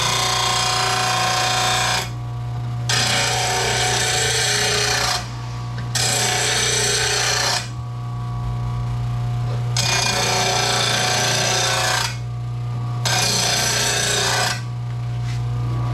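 RBG 712 powered blade sharpener grinding a steel lawn mower blade: about five passes of the blade along the grinding wheel, each a loud rasping grind of one to two seconds with short pauses between, over the steady hum of the motor. The hum stops at the very end.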